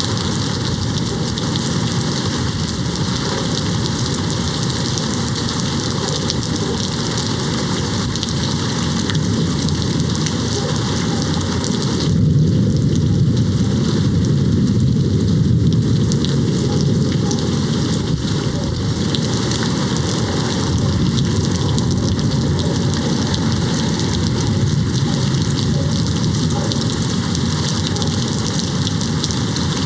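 Steady rain hitting a window. About twelve seconds in, a low rumble of distant thunder swells and fades over a few seconds.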